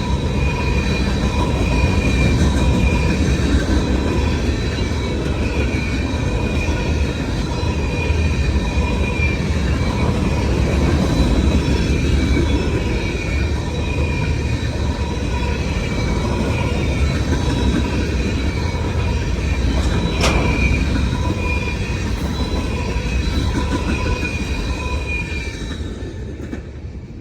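Freight train rolling past a grade crossing, a continuous loud rumble of cars and wheels with steady high-pitched tones over it. One sharp click about twenty seconds in; the sound drops away near the end.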